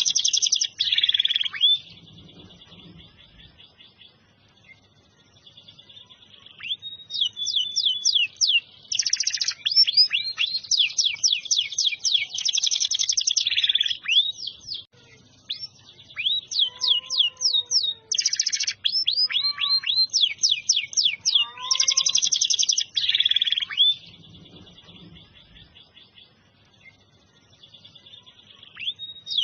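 Domestic canary singing: bursts of rapid trills and repeated sweeping chirps, with pauses of a few seconds between the phrases.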